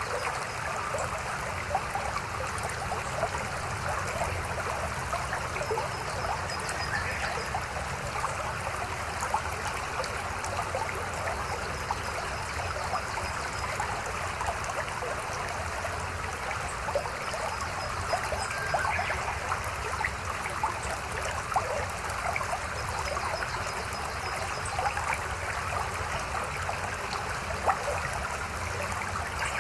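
A mountain stream babbling steadily. A faint high trill repeats about every six seconds.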